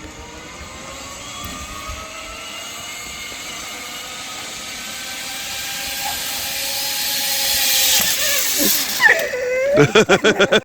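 Zip-line trolley pulleys running along a steel cable, a steady whirring whine that grows louder as the rider picks up speed. It cuts off about eight seconds in as the rider reaches the platform, followed by a few short, loud pulsing sounds near the end.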